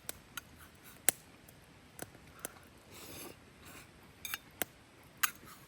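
Tableware and utensils clicking and tapping during a meal: about eight sharp, separate clicks, with a short scraping rustle about three seconds in.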